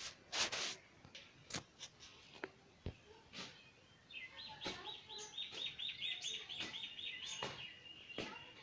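Scattered sharp clicks and knocks, then from about four seconds in a small bird's rapid trill of quickly repeated high notes lasting about four seconds, ending on a held note.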